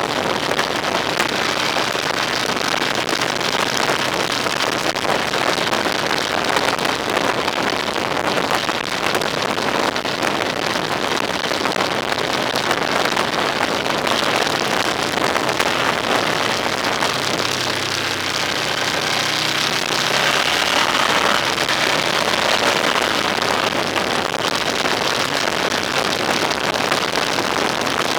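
Vehicle driving along a road: a steady rush of road and wind noise over a low engine hum, the engine note growing stronger for a few seconds just past the middle.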